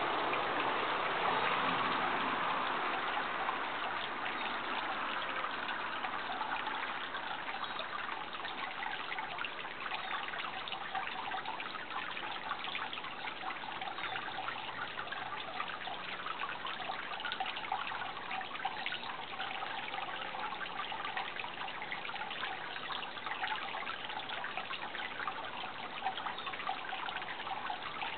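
Water trickling and splashing steadily, a continuous fine crackle like a small stream; a louder rushing at the start eases off over the first several seconds.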